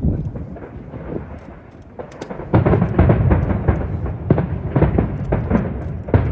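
Aerial fireworks exploding in a barrage. There are scattered bangs at first, then from about two and a half seconds in a dense run of booms, several a second, over a steady low rumble of wind on the microphone.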